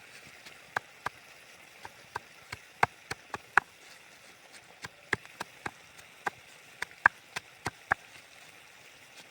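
Knife chopping on a wooden surface: sharp, irregular knocks, two or three a second, over a faint steady hiss.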